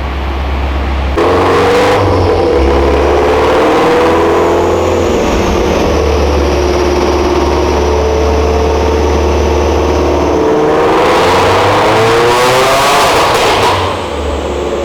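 Car engine run hard under load on a chassis dyno. It comes on loud about a second in, and its revs climb in a long pull before it drops off sharply near the end as the throttle is released.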